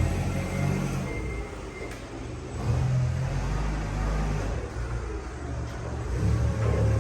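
Detroit 8V71 two-stroke V8 diesel engine running on test, its speed dropping back about two seconds in, then picking up again and rising toward the end.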